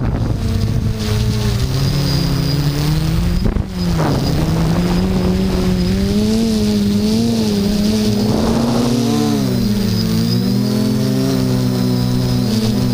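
HT-FPV Hoverthings quadcopter's motors and propellers whirring, the pitch wavering up and down as the throttle changes, over a low rumble of wind on the microphone.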